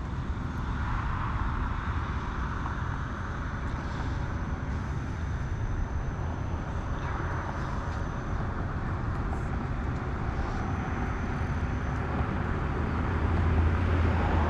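Steady outdoor rumble and hiss, growing louder near the end.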